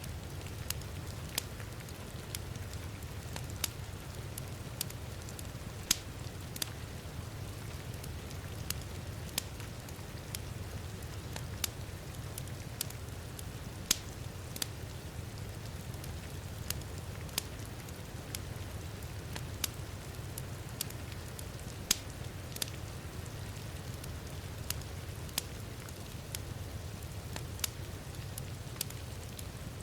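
Wood fire crackling in a fireplace, with irregular sharp pops about one or two a second, over a steady low rumble of heavy rain.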